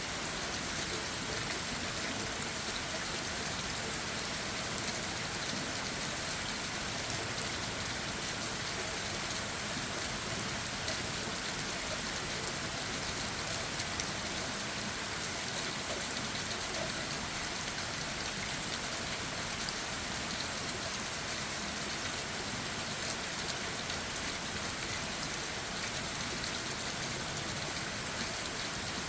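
Steady rain falling on leaves and ground, an even hiss with scattered drop taps and one sharper tap about halfway through.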